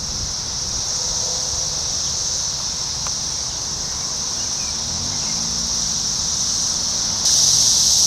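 Chorus of Brood X 17-year periodical cicadas, a steady high-pitched drone that jumps abruptly louder about seven seconds in.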